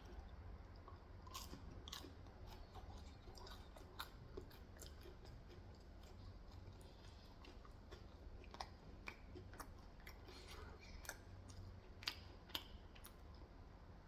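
Quiet close-up chewing and biting of Korean fried chicken (snow chicken), with many small, sharp crunching clicks scattered irregularly throughout.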